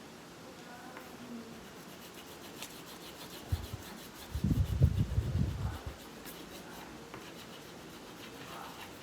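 Colouring strokes rubbing and scratching on paper. About four to six seconds in there is a louder patch of low thumps and rumble, like the hand or page being handled.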